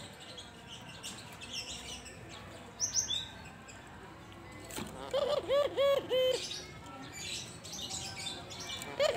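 Albino puter (white Barbary dove) cooing: a run of about five short, evenly repeated coo notes starting about five seconds in, with faint high chirps from other small birds earlier.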